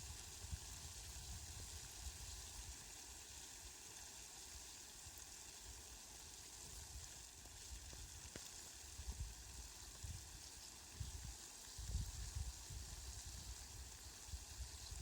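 Steady hiss of falling rain, faint, with irregular low rumbles underneath that grow stronger in the second half.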